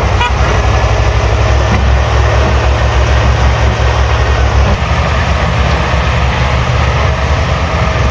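Heavy diesel engine running steadily at idle, with a deep even pulsing rumble that shifts slightly in tone about five seconds in.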